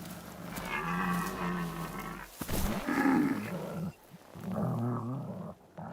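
A young bison bawling in distress under a wolf attack, in three drawn-out calls.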